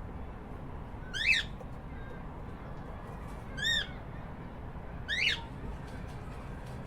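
Cockatiel calling three times: short whistled calls that sweep up in pitch, with the middle one rising and falling, about two seconds apart over a steady low background noise.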